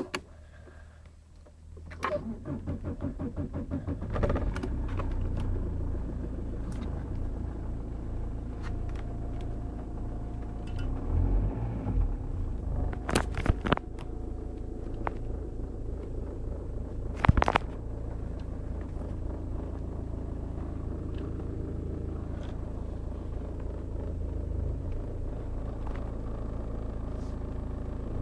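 Audi engine cold start: the starter cranks for about two seconds, then the engine catches and settles into a steady idle. A few sharp knocks or clicks sound over the idle midway through.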